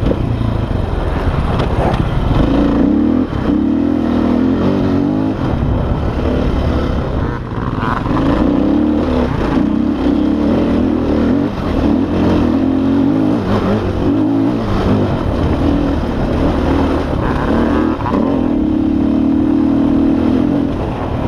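KTM dirt bike engine running hard, revving up and easing off over and over as the throttle is worked.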